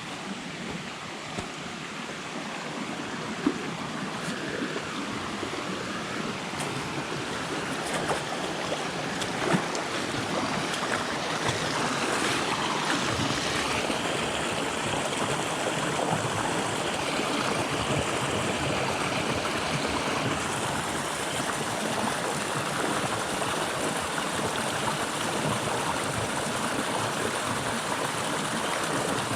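Flowing river water, a steady rush that grows louder over the first twelve seconds or so and then holds. A few sharp knocks or splashes stand out in the first ten seconds.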